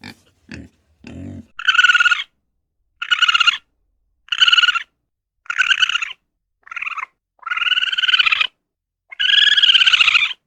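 An animal calling over and over: seven high-pitched calls, each under about a second, after a few short low grunts in the first second.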